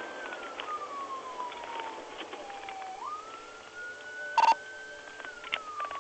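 Police car siren wailing: each cycle climbs quickly, holds high, then slides slowly down, repeating about every three seconds. A short loud crackle cuts in about four and a half seconds in.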